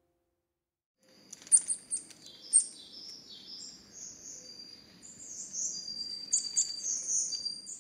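Songbirds chirping and twittering: a string of short high calls starting about a second in, over a faint low background rumble.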